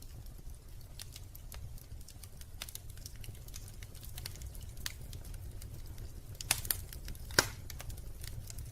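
Wood fire crackling in a fireplace: scattered small pops and snaps over a low steady rumble, with two louder pops a little past the middle.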